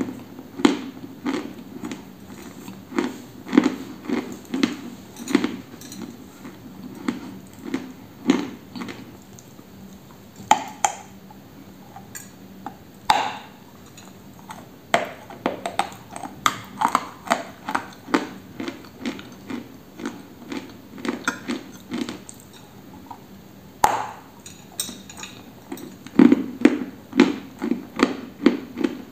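Close-up crunching of a dry white chalk-like lump being bitten and chewed. It settles into steady chews about twice a second, broken by a few sharper, louder bites, the strongest near the end.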